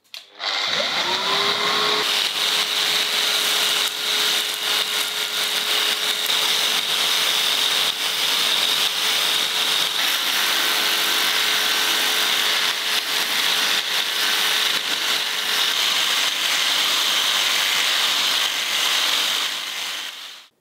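A small electric motor, like a power tool's, starting up with a brief rise in pitch, then running steadily and loudly with a hissing, grinding noise, and stopping abruptly near the end.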